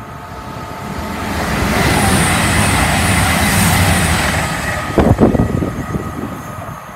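Diesel intercity train passing at speed through a station: a rushing roar of wheels and engine that swells to a peak, with a faint high whistle over it. About five seconds in, sharp buffets of wind hit the microphone before the sound falls away.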